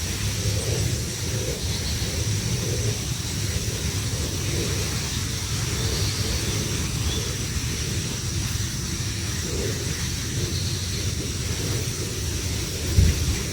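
Steady low rumbling noise with an even high hiss above it, and a single thump near the end.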